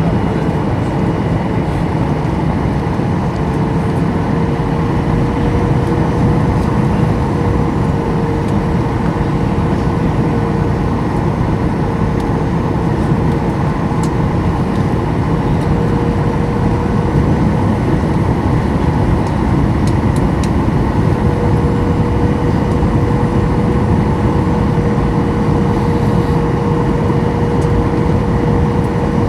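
Boeing 737-800 cabin noise in flight: the steady rush of airflow and the hum of the CFM56 turbofans, with a constant tone running through it.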